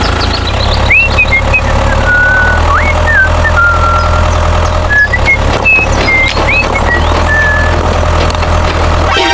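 Tractor engine running steadily under load, with a series of short high-pitched chirps and squeaks rising and falling over the engine.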